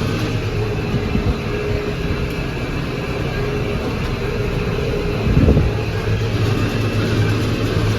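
McCormick MTX 150 tractor running steadily while working a John Deere baler, with a low thump about five and a half seconds in.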